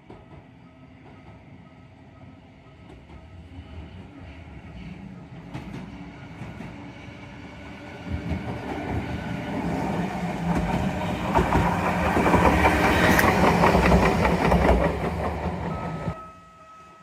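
Randen Kitano Line tram approaching and passing, its wheels running over the rails with a clickety-clack, growing steadily louder to a peak and then cutting off suddenly near the end.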